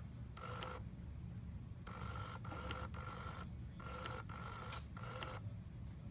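Internal mechanism of a 2007 Baby Alive Learns To Potty doll clicking repeatedly: several short spells of a faint mechanical whir with sharp clicks, a second or so apart. This is the doll's clicking fault, which stops when something is put in her mouth.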